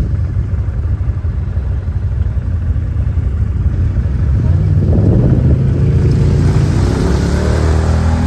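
ATV (quad bike) engine running, then revving up with a rising pitch from about six seconds in.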